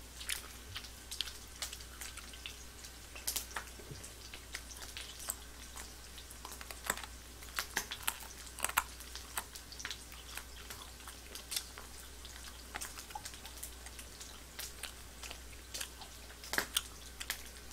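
Close-miked chewing: scattered soft wet clicks and smacks from a mouth eating, over a steady low hum.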